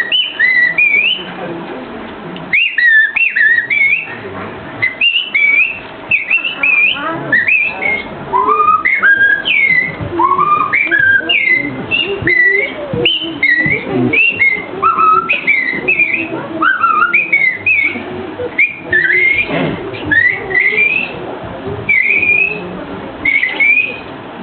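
A person whistling an imitation of birdsong: a long, rapid run of short chirping notes that slide up and down, with brief pauses between phrases.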